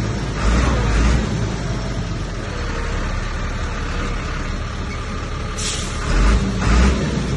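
Komatsu bulldozer's diesel engine running under load, surging louder about half a second in and again near the end, with a short hiss a little over halfway through.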